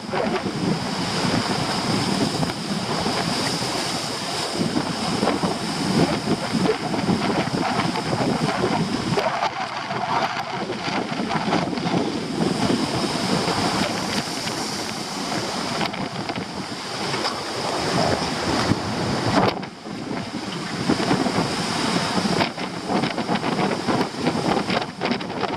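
Heavy storm surf breaking on a rocky shore, with strong wind buffeting the microphone in a steady rushing noise that dips briefly about three quarters of the way through.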